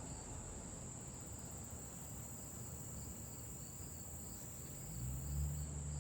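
Steady high-pitched chirring of crickets. About five seconds in, a low steady hum comes in and grows louder.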